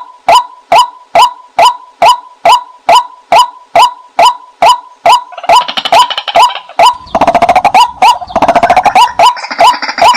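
White-breasted waterhen calling: a steady string of short, loud, downward-sliding notes about two and a half per second. About halfway through, a second, busier stretch of rapid calling overlaps the steady notes and thickens into a denser chorus.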